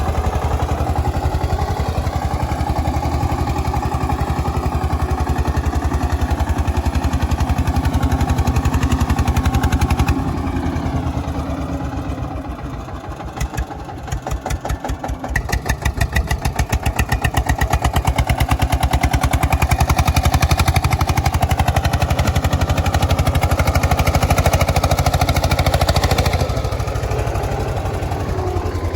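Eicher tractor's diesel engine running with a steady beat while pulling a soil-loaded trolley. Roughly ten seconds in it drops quieter and its separate firing beats stand out. It then builds back up to full volume and eases off slightly near the end.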